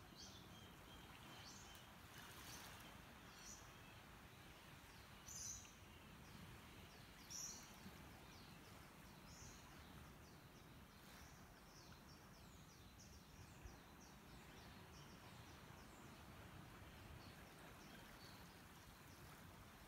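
Faint birds chirping: scattered short, high chirps, two a little louder about five and a half and seven and a half seconds in, over a low steady hiss.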